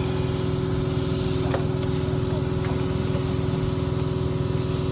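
A machine running steadily, with a fast even low pulse under a constant hiss.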